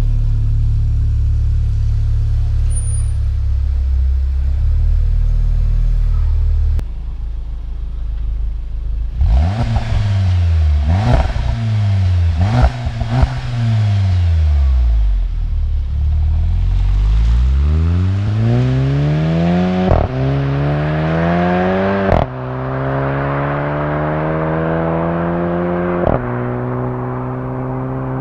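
Volkswagen Golf Mk7 GTI's turbocharged 2.0-litre four-cylinder and its exhaust. It runs with a steady low drone, is revved in a few quick blips, then accelerates hard through the gears. The pitch climbs and drops sharply at each of three upshifts.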